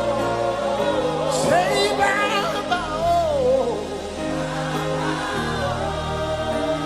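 Live gospel worship music: held keyboard chords under singing, with a melodic line that slides up and down through a run between about one and four seconds in.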